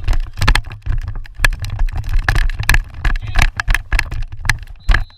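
Wind rumbling on the microphone over a stream of sharp irregular clacks, typical of lacrosse sticks striking during play. A faint, thin high whistle starts near the end.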